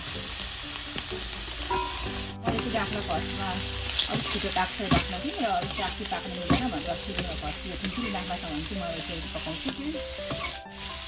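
Red palungo (Nepali red spinach) stalks sizzling as they fry in a hot stainless steel pan, dropped in by hand and then stirred, with a few sharp knocks.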